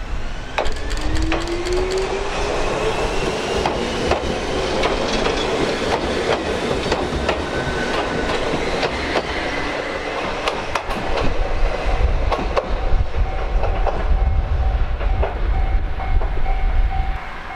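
Ichibata Electric Railway electric train pulling out: the traction motor whine climbs in pitch as it accelerates, with the wheels clicking over rail joints. A heavier rumble builds about two-thirds of the way through, and a steady tone joins at the same time.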